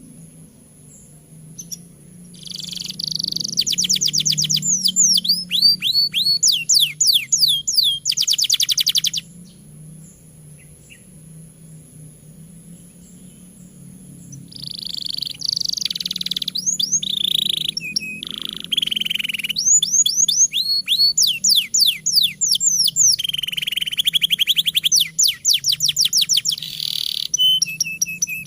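Canary singing a long song of fast trills and rapidly repeated sweeping notes, in two long bursts with a pause of about five seconds between them. A faint low hum runs underneath.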